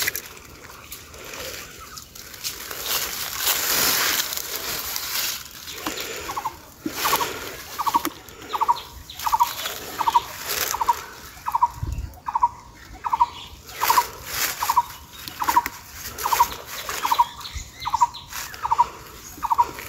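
Water splashing and sloshing around a man wading in a pond and hauling in a cast net. From about seven seconds in, a bird gives a short call over and over, about three calls every two seconds.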